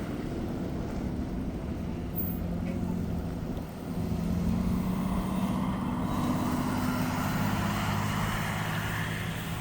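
A motor vehicle's engine running close by, with a steady low hum that grows louder about four seconds in and eases off near the end.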